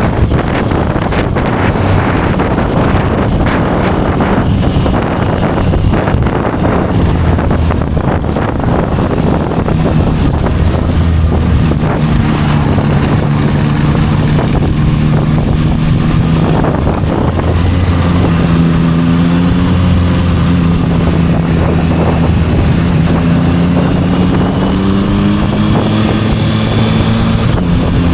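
Yamaha motorcycle engine running while being ridden, with wind buffeting the microphone, heaviest in the first part. The engine note holds steady and shifts in pitch a few times as the speed and gears change.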